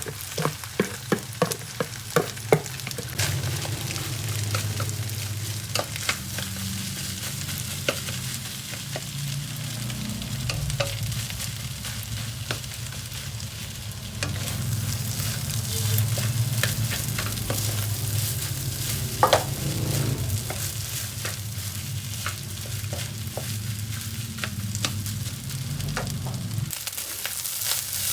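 Garlic egg fried rice sizzling in a hot pan while it is stirred and tossed with a spatula, sharp taps and scrapes against the pan over the frying. Quick taps come close together in the first couple of seconds, and a low hum underneath stops suddenly near the end.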